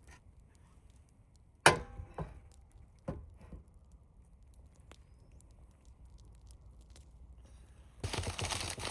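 Camp cooking gear being handled: one sharp knock with a brief ring, then a few lighter knocks, and a rustling noise starting near the end.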